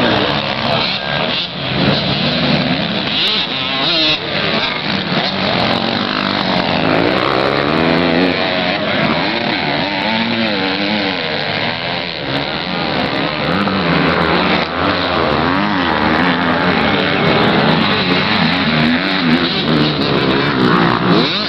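Several motocross bikes' engines revving up and down, overlapping and without a break.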